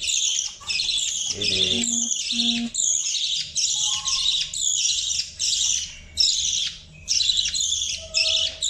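Baby budgerigar chirping over and over in a steady run of raspy high calls, about two a second.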